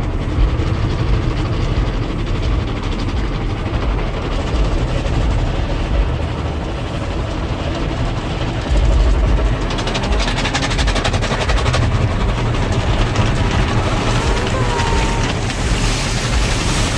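Automatic car wash heard from inside the car: a steady low rumble, with the hiss of water spray on the car growing louder from about ten seconds in.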